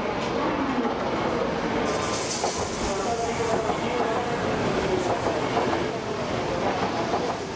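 A 700 Series Shinkansen train runs slowly into the terminus platform, its cars passing close by with a steady rush of wheel and air noise. The sound turns hissier about two seconds in as the cars come alongside.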